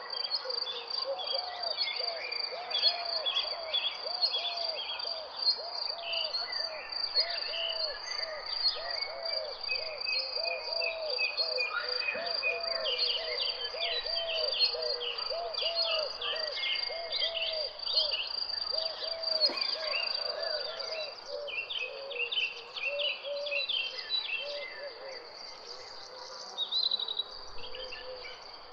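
A steady high insect trill, likely crickets, with many birds chirping and calling over it, and a low arching call repeated over and over until near the end.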